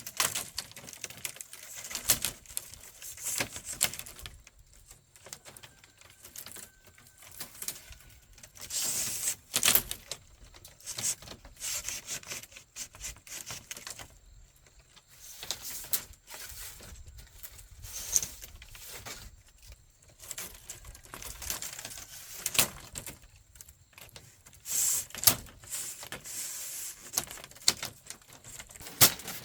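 Bamboo being worked by hand: irregular sharp clicks and taps with brief scraping, in uneven clusters, the loudest about a third of the way in and again near the end.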